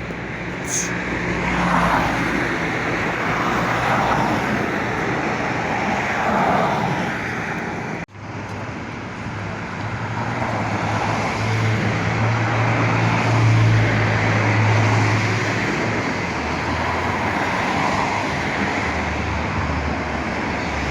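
City street traffic: a steady wash of passing vehicles, with a low engine hum growing stronger in the middle and a brief dropout about eight seconds in.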